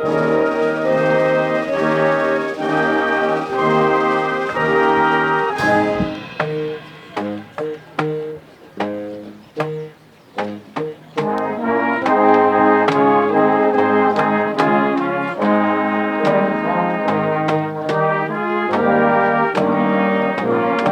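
Brass ensemble playing a slow piece in chords: long held chords, then from about six seconds a stretch of short separated notes with gaps between them, and from about twelve seconds fuller held chords again.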